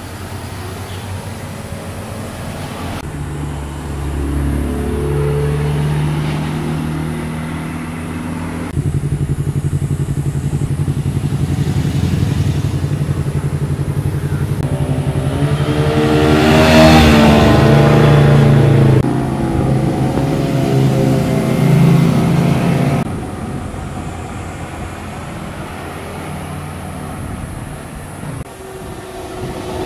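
Car and motorcycle engines passing one after another, revving as they go by, with abrupt changes from one pass to the next. The loudest pass, about halfway through, rises and then falls in pitch as it goes by.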